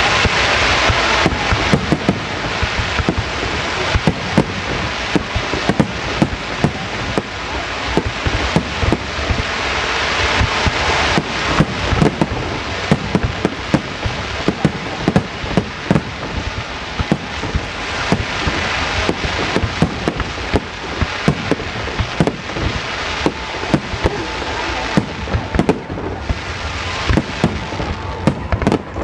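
A fireworks finale barrage: aerial shells and ground-fired stars going off in rapid, overlapping bangs, several a second, over a continuous crackling hiss.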